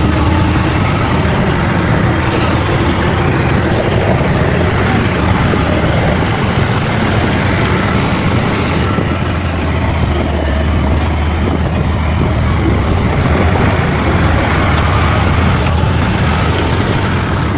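Bulldozer's diesel engine running steadily, a loud low drone.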